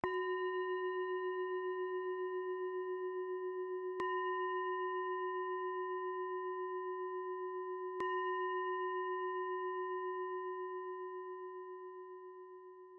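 Meditation singing bowl struck three times, about four seconds apart. Each stroke rings with a wavering, pulsing tone, and after the last it fades slowly away.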